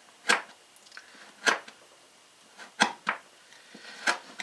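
A dull knife cutting through old chainsaw recoil starter rope: five short, sharp rasping strokes over about four seconds, the blade struggling to get through.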